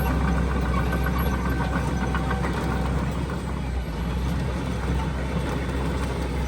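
Heavy diesel earthmoving machinery running: a steady low engine drone, with a thin high whine on top that fades after about two seconds.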